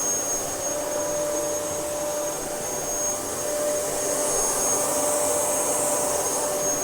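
Dyson DC07 bagless upright vacuum cleaner running steadily, a constant high motor whine over the rush of air.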